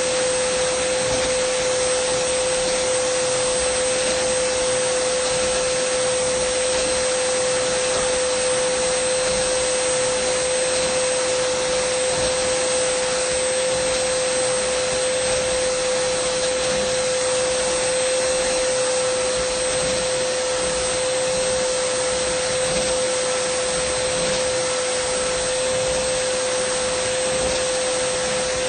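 Dyson vacuum cleaner running continuously: an even rush of air with a strong, steady hum-like tone and a fainter high whine, unchanging in pitch and loudness.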